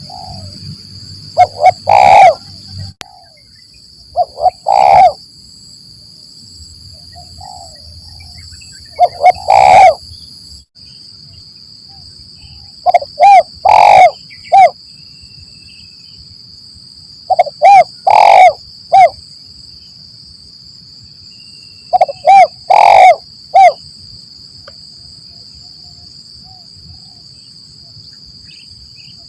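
Spotted dove (tekukur) cooing loudly. Six phrases of several short, hollow coos come about every four to five seconds. A thin, steady high-pitched tone from insects or the recording sits behind them.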